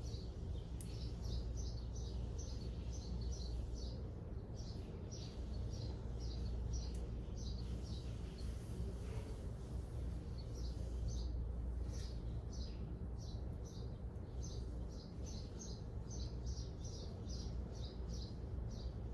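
Small birds chirping in quick runs of short, high notes, thinning out in the middle, over a steady low rumble.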